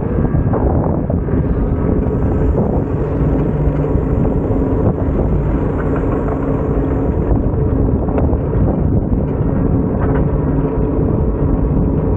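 A vehicle engine running steadily under a heavy low rumble of wind on the microphone.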